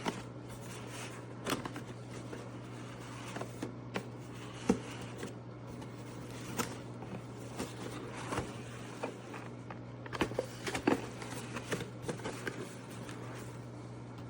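A steady low hum runs under irregular light clicks and knocks. The sharpest knock comes about a third of the way in, and a cluster of them follows later on.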